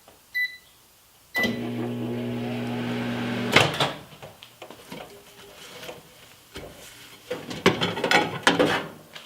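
Microwave oven: two short keypad beeps, then the oven running with a steady hum for about two seconds, cut off by a sharp click. After that come scattered clicks and clatter, loudest near the end.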